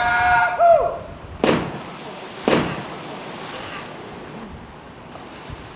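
A held, wavering pitched tone cuts off about a second in, followed by two loud booming hits about a second apart. Each hit trails off into a fading hiss.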